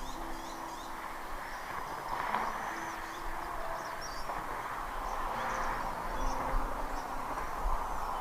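Scattered short, high bird chirps over a steady rushing background noise, with slow held low notes of soft background music underneath.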